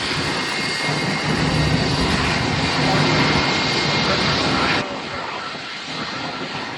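Airliner's engines running loud and close, a dense steady rush with a low hum under it, that drops suddenly about two-thirds in.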